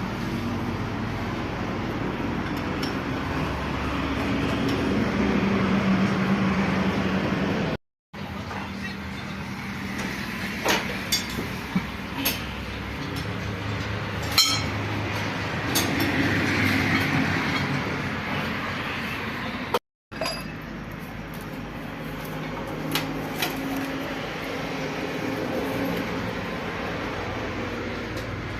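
A steady, low engine hum runs under scattered sharp metallic clinks of tools and parts being handled on the tractor. The sound cuts out briefly twice.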